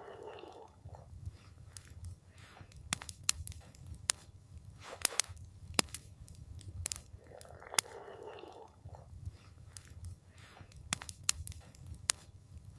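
Campfire crackling: irregular sharp pops and snaps from the burning wood over a low steady rumble, with a brief soft rush near the start and again about two-thirds of the way through.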